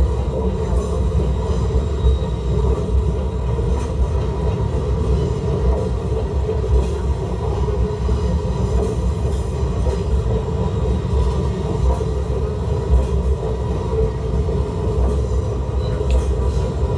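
N scale model train running on the layout track: a steady motor hum over a continuous wheel rumble.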